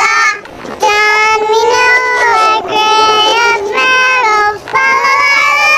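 High-pitched, childlike singing voice holding a series of long notes, with short breaks about half a second in and about four and a half seconds in.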